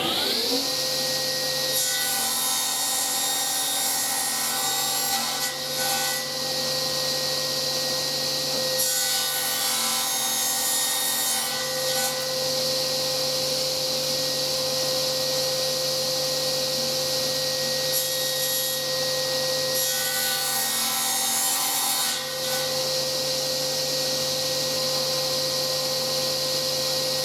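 An electric power tool that has just spun up runs steadily while working MDF or plywood board, the rough cutting noise growing louder in several stretches as the tool is pressed into the wood.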